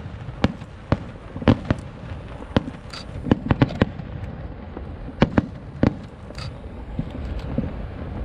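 Aerial fireworks shells bursting: irregular sharp bangs over a low rumble, with a quick cluster about three to four seconds in. The bangs thin out over the last couple of seconds.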